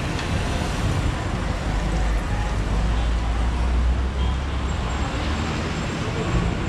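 Motorcycle on the move: a steady low engine rumble under an even rush of wind and road noise.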